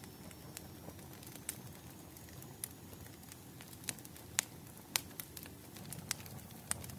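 Wood fire crackling: irregular sharp pops and snaps over a low steady rush of burning, with the loudest pops coming between about four and five seconds in.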